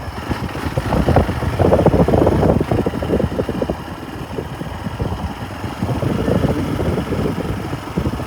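Motorcycle engine running, with an uneven rumble that swells louder about a second in and eases off after three seconds.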